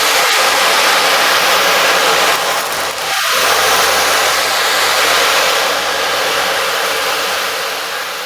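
A loud, steady rushing hiss that swells in and slowly fades, with a brief glide in pitch about three seconds in.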